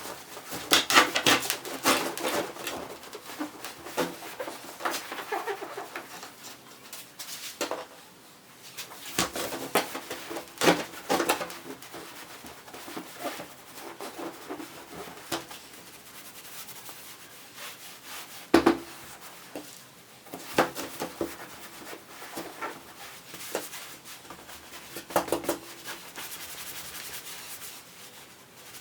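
Hands working on a wooden chair: irregular rubbing and rustling, broken by a few sharp knocks.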